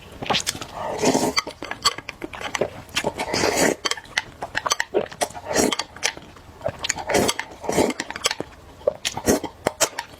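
Close-miked eating sounds: irregular wet chewing and slurping, mixed with light clicks and clinks of utensils.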